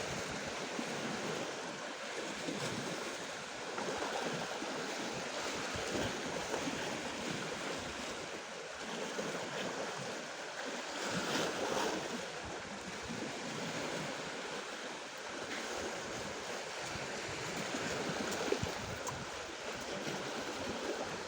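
Black Sea surf washing onto the shore, a steady rush that swells and eases, loudest about eleven seconds in.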